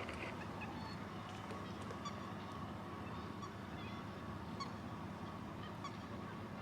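Many waterbirds calling across a lake, short scattered honks and peeps, over a steady low hum of a car engine.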